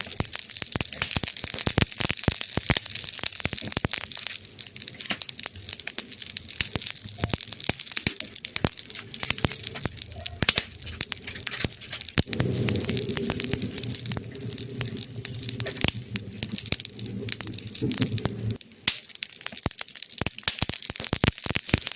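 Wood fire crackling, with dense irregular snaps and pops over a hiss. A low rumble of the flames swells for several seconds past the middle, then drops away.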